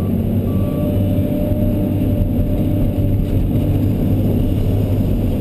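Excavator's diesel engine running steadily, heard from the cab. A dump truck's reversing beeps sound once or twice more at the start and stop about half a second in.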